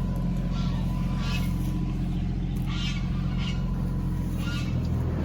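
Tractor engine running steadily while driving a hay baler, with about six short, higher-pitched calls or squawks over the top.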